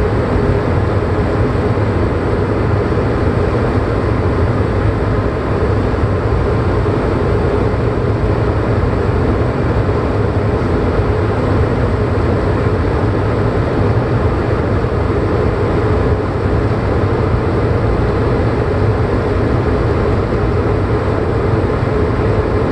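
Steady engine and propeller drone of a small piston-engined airplane in flight, holding an even power setting.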